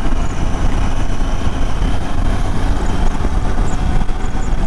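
Motorcycle on the move at highway speed: a steady rush of wind on the microphone mixed with engine and road noise.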